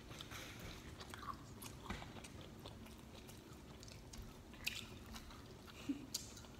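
A person chewing a bite of pizza, faint, with a few small mouth clicks.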